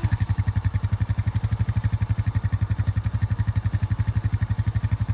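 A farm vehicle's engine idling with a rapid, even putter.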